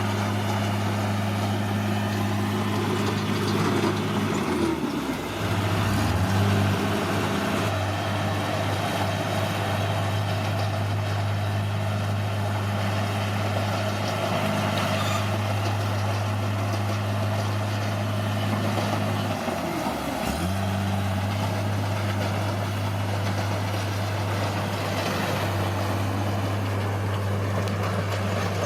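Bulldozer's heavy diesel engine running steadily under work. Its note dips briefly and recovers twice, about five seconds in and about twenty seconds in.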